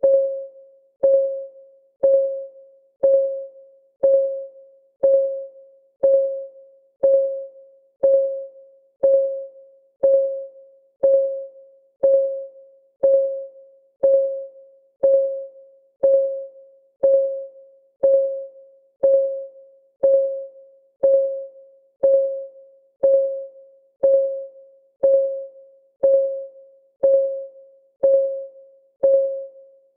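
Countdown timer's clock-ticking sound: one short, pitched tick every second, each ringing briefly and fading before the next, perfectly regular.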